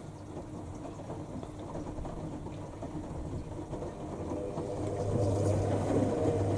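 Front-loading washing machines tumbling a wash: a steady drum-motor hum that grows louder about five seconds in.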